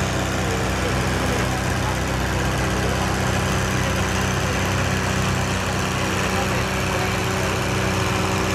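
Case 900 tractor's diesel engine running steadily, with no change in speed.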